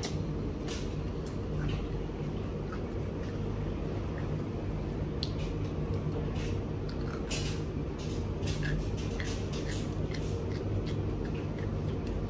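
A child biting and chewing a pickle close to the microphone: wet, squishy crunches and mouth clicks scattered throughout, over a steady low hum.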